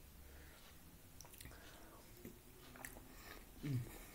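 A person chewing a mouthful of food, faintly, with a few small clicks. About three and a half seconds in comes a short low hum that falls in pitch.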